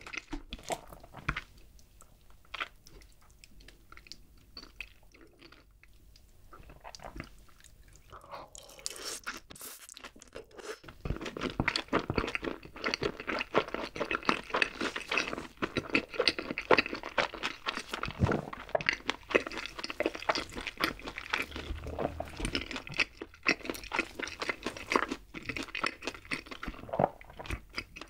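Crunching and chewing of gochu-mayo fried chicken, close to the microphone: sparse and soft for the first several seconds, then dense crunches from about ten seconds in.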